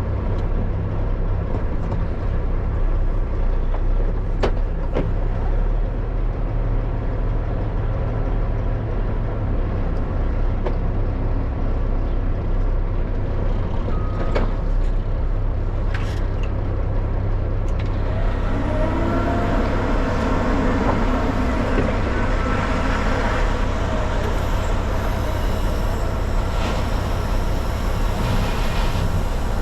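Dump truck's diesel engine idling steadily, heard from inside the cab, with a few sharp clicks. From about 18 seconds in a louder rumbling joins in, with engine tones that rise and waver.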